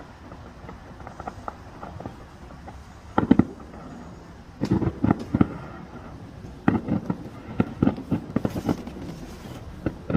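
Aerial fireworks bursting: a steady patter of small crackling pops, with clusters of louder booms from about three seconds in that keep coming every second or two.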